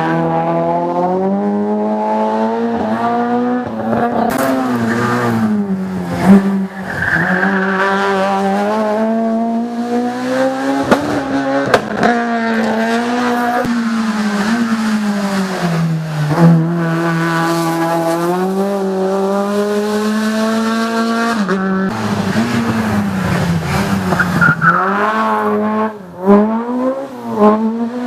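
Race car engine running hard on a hill climb: its pitch climbs and drops again and again as it works through the gears and lifts off for corners. A few sharp cracks break in along the way.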